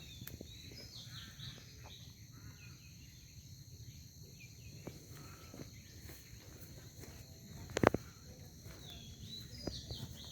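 Faint outdoor ambience: a steady high insect chorus with scattered short bird chirps, and one sharp knock about eight seconds in.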